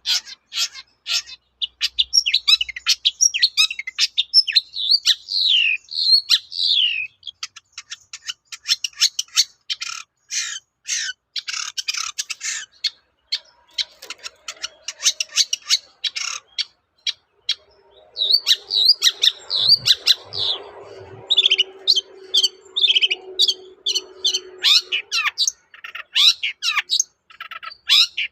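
Long-tailed shrike (cendet) singing a fast, harsh, chattering song: dense runs of quick squeaky notes and short falling phrases, with brief pauses in between.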